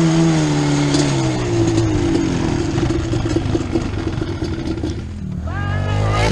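Two-stroke engine of a Yamaha Banshee 350 ATV being ridden. Its pitch falls as it comes off the throttle over the first couple of seconds, runs steadily, then revs up sharply near the end.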